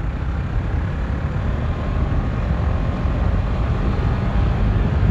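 Motorcycle riding at high speed on a top-speed run: wind rushing over the microphone covers the engine, which is faintly heard beneath it, getting slightly louder as the run goes on.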